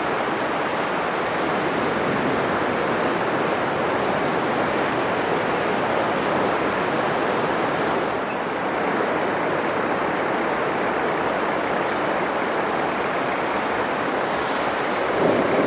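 Atlantic surf breaking on a sandy beach: a continuous rushing wash of waves, with a louder wave crashing in near the end.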